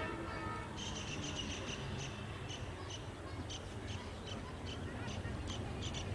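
Birds chirping in short, irregular bursts from about a second in, over a steady low rumble.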